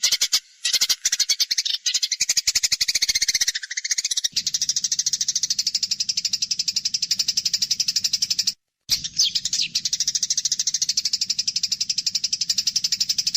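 Eurasian tree sparrows giving the harsh, rapid rattling chatter of sparrows fighting, a fast run of pulsed chirps broken by a few short silent gaps.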